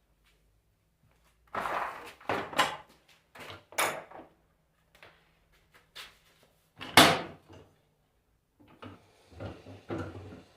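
A run of sharp knocks and clunks from the rebuilt alternator being handled and set down, the loudest about seven seconds in, over a faint steady low hum.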